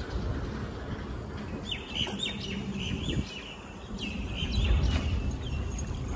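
Small birds chirping: a quick series of short, high chirps starting about a second and a half in, over a low rumble that swells briefly near the end.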